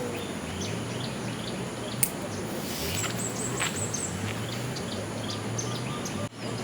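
Steady hiss of water, with a bird calling in quick runs of short, high, falling chirps, about six a second, and other scattered chirps. A sharp click comes about two seconds in.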